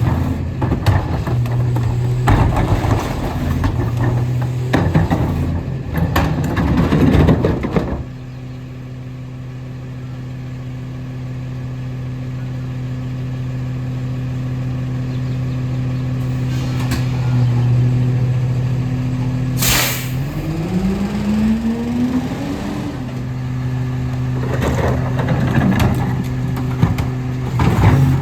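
Rear-loader garbage truck (Autocar ACX with Pac-Tech body): the engine runs steadily under loud clattering and rattling for the first several seconds, which stops abruptly. About twenty seconds in there is a sharp hiss of air brakes, then the engine revs up as the truck moves off, with more rattling near the end.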